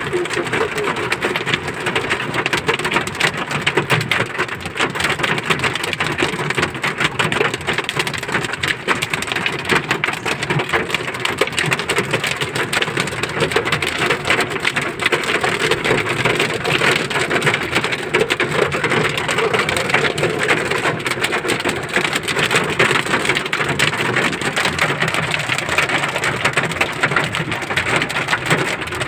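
Heavy rain falling steadily, a dense stream of drops striking a hard surface.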